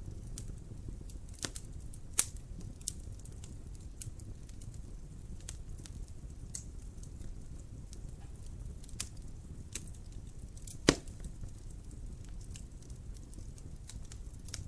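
Wood fire burning in a fireplace: a steady low noise of the flames with scattered sharp crackles and pops at irregular times, the loudest pop about eleven seconds in.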